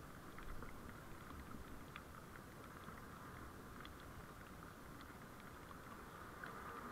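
Faint, steady vehicle road noise picked up by a dashcam while driving, with scattered light ticks.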